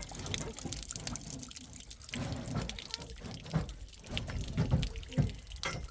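Water dripping and splashing in irregular drops, with a few dull low thumps.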